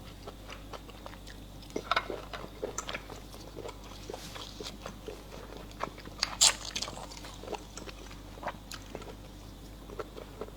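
Close-miked eating: irregular chewing, biting and lip-smacking clicks, with a louder wet burst about six and a half seconds in.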